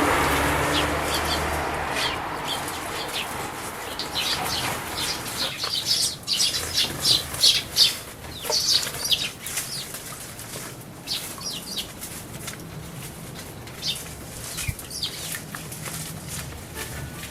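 Tree sparrows bathing in a shallow bird bath: rapid splashing and wing-fluttering in quick flurries, busiest in the middle and thinning toward the end. A low rushing background noise fades away over the first couple of seconds.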